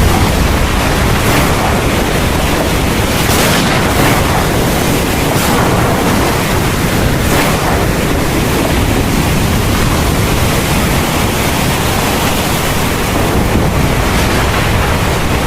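Heavy rain pouring steadily, a dense even hiss with a deep low rumble underneath.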